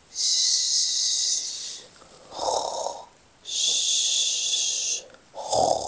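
A person making playful pretend-snoring sounds: a long 'shhh' hiss, then a short snoring in-breath, another long 'shhh', and a second snoring in-breath near the end.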